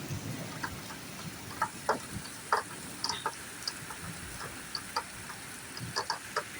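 Rain drips ticking irregularly on hard surfaces over a faint steady hiss of rain.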